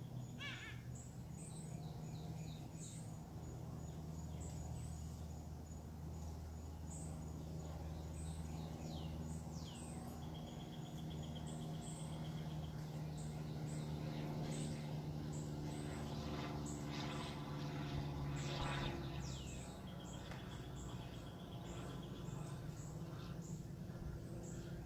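Several wild birds calling and singing: short high chirps, falling whistled notes and a rapid trill, over a steady low hum.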